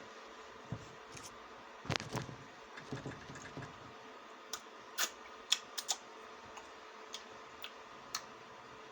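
Close-up eating sounds of someone chewing watermelon: scattered wet mouth clicks and smacks. A fuller chewing sound comes about two seconds in, and a run of sharp clicks follows from about four and a half to eight seconds.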